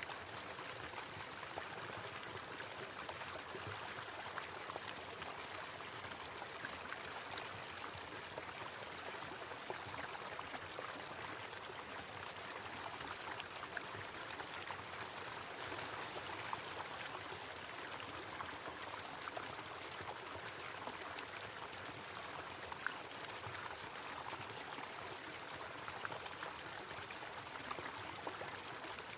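Small waterfall: water pouring and splashing steadily, with small drip-like ticks scattered through it.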